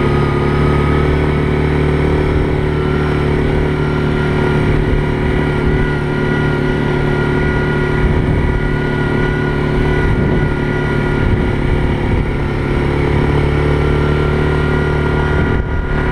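ATV engine running steadily under throttle with an even drone, easing off just before the end.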